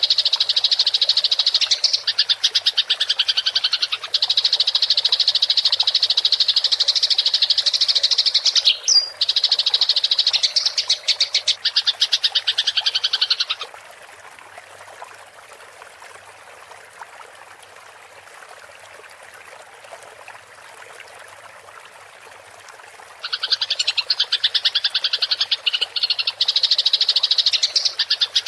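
Eurasian tree sparrows (burung gereja) chattering in a fast, continuous, scolding roll, typical of fighting birds. About halfway through the chatter stops for about ten seconds, leaving only a soft running-water hiss, then starts up again.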